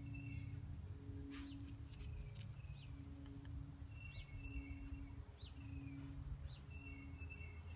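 A bird chirping over and over, each call a quick rising note that falls into a short steady whistle, over a low steady outdoor rumble. A few sharp clicks come about two seconds in.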